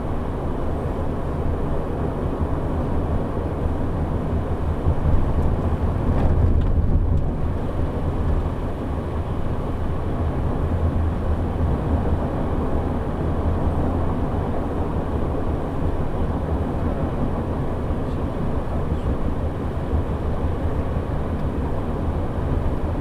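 Shuttle bus driving, heard from inside: a steady low rumble of engine and road noise that swells slightly a few seconds in.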